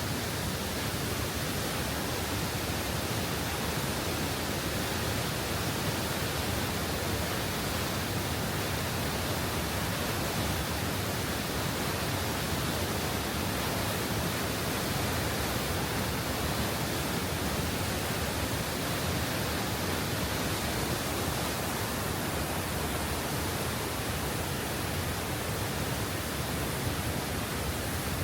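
High Force, the 70 ft waterfall on the River Tees, rushing down close by: a loud, steady, even wash of falling water that does not change.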